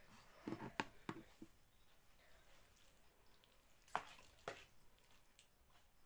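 Eating sounds of someone eating noodle soup by hand: a few short, wet mouth clicks and smacks, a cluster of about four near the start and two more about four seconds in.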